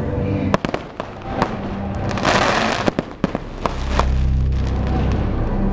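Fireworks going off: scattered sharp bangs and a dense crackling burst about two seconds in, over music whose bass grows stronger in the second half.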